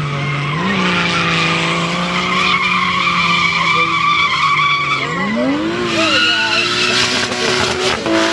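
Nissan Skyline R31's RB20 straight-six held at high revs during a burnout, the rear tyres squealing steadily. The revs rise a little about a second in and step up higher about five seconds in.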